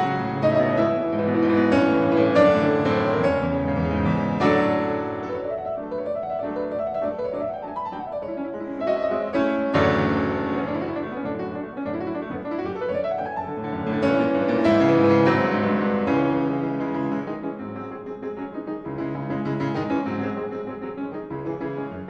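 Solo piano music playing, with flowing arpeggios that sweep upward.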